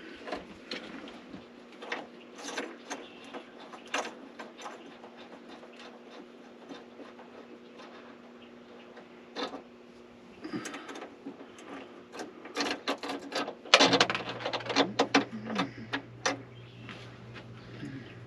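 Scattered small clicks, taps and knocks of tools and parts being handled during electrical wiring work, thickest about fourteen seconds in. Under them runs a steady hum that drops to a lower pitch at that point.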